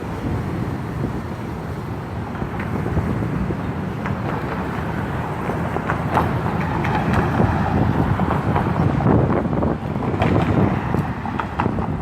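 Outdoor city ambience: a steady rumble of traffic with wind buffeting the microphone, and scattered short clicks and knocks in the second half.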